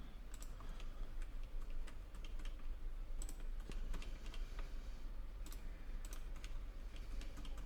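Irregular clicking of a computer mouse and keyboard during CAD work, many light clicks at an uneven pace, over a low steady hum.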